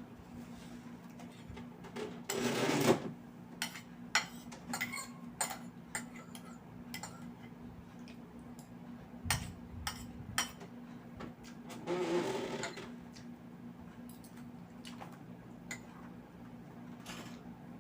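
Eating sounds: scattered chewing and mouth clicks, with two longer noisy stretches about two and twelve seconds in, over a steady low hum.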